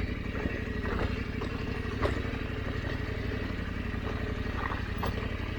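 KTM 890 Adventure's parallel-twin engine running steadily at low revs as the bike picks its way down a rocky trail, with a few short knocks and clatter over the rocks.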